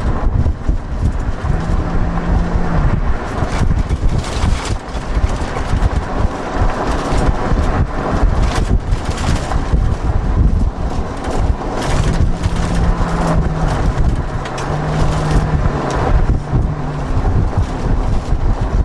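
Off-road 4x4 vehicle driving on a dirt trail: a steady low rumble, with the engine note rising, holding and dropping back a few times. Wind buffets the microphone.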